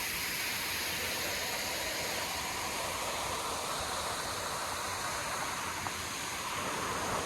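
Waterfall rushing, a steady even roar of falling water, fuller after a night of rain.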